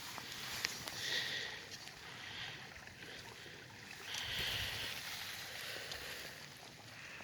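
Water lapping and trickling, coming and going in soft swells, with a few faint clicks.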